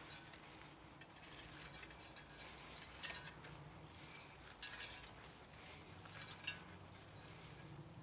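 A few light, scattered metallic clinks and taps from metal parts of a scrapped electric pump motor being handled as it is taken apart, over a faint steady low hum.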